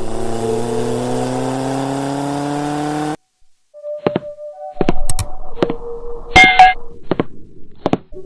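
An engine revving up, its pitch rising steadily for about three seconds before cutting off abruptly. It is followed by a string of sharp knocks and thunks mixed with short held notes.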